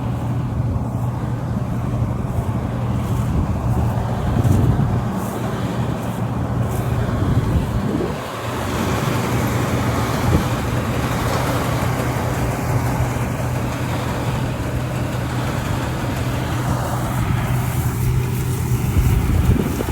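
A harvesting machine's engine running steadily, a constant low hum, dipping briefly about eight seconds in.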